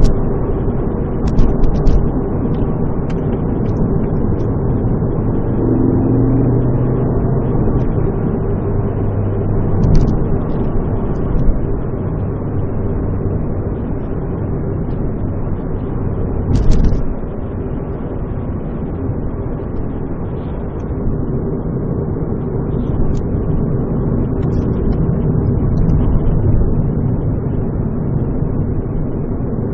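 Car engine and resonator-deleted exhaust droning steadily inside the cabin while driving, with a few brief knocks.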